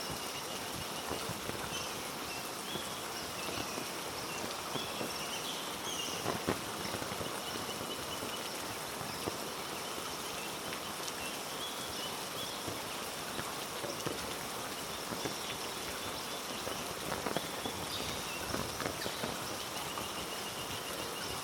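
Steady heavy rain falling on rainforest foliage, an even dense hiss, with faint high chirping calls and a few soft knocks over it.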